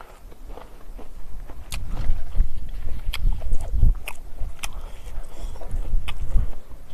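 Close-up chewing of a mouthful of rice and curry, with about five sharp wet mouth clicks and smacks over a low rumble.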